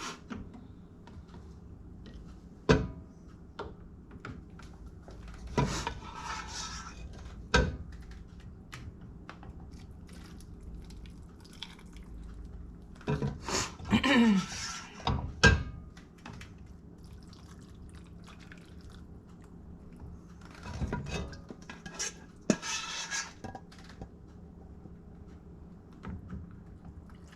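Kitchen utensils and dishes clattering: a few sharp clacks spaced several seconds apart, with three stretches of scraping and rustling between them.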